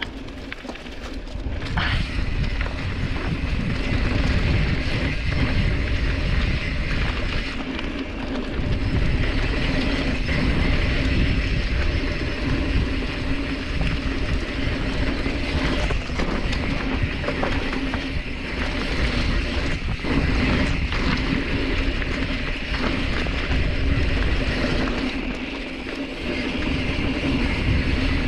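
Specialized Stumpjumper mountain bike rolling down an eroded dirt trail: tyres running over dirt and rocks, with scattered clicks and knocks from the bike over a continuous low rumble.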